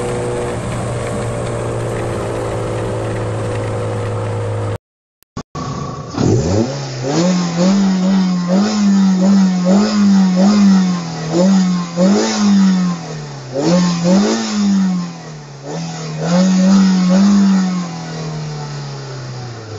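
Lancia Delta II 1.6 16V four-cylinder engine at a steady cruise, heard inside the cabin. After a cut and a brief silence, the engine starts, is blipped about once a second roughly ten times while standing still, then drops back toward idle near the end.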